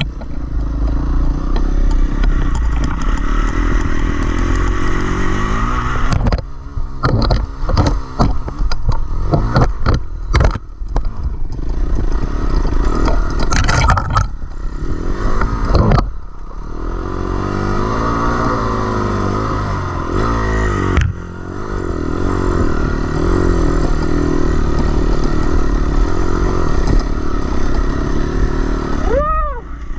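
Dirt bike engine running under changing throttle, its pitch rising and falling as it revs. A run of clattering knocks and scrapes comes from about six to fourteen seconds in.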